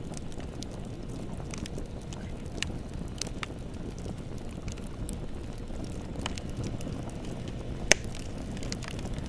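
Bonfire burning with a steady low rumble and scattered crackles, one sharp pop about eight seconds in.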